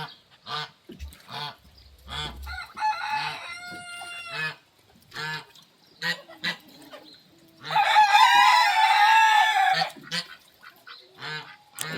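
A rooster crows twice: a shorter crow about three seconds in and a louder, longer one about eight seconds in. Chickens cluck briefly in between.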